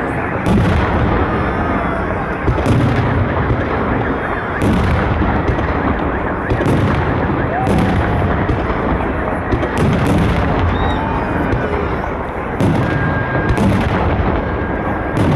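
Fireworks salute: aerial shells bursting with deep booms about every two seconds, over a steady dense background of noise.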